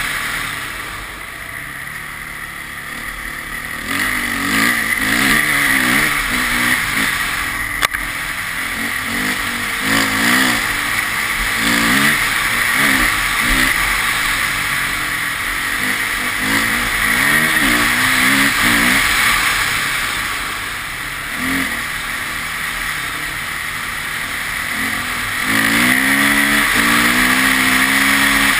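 Car engine revving up and falling back again and again as it is driven hard through the gears, over steady road and wind noise. Near the end the revs climb and hold, louder.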